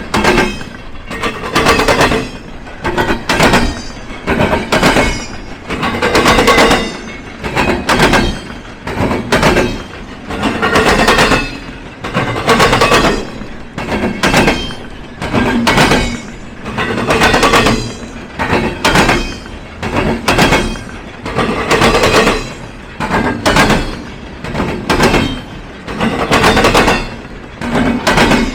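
Train wheels banging over a railroad diamond crossing: a steady series of sharp metallic clatters, coming in clusters every second or two as each car's wheel sets hit the gaps in the crossing.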